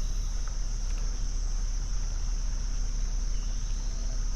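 Steady, high-pitched chorus of insects buzzing without a break, over a steady low rumble.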